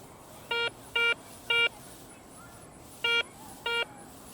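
Garrett ACE 250 metal detector sounding short beeps of one mid-pitched tone as its coil is swept back and forth over a buried target: three beeps about half a second apart, a pause of over a second, then three more. The tone is the one the detectorist reads as a nickel.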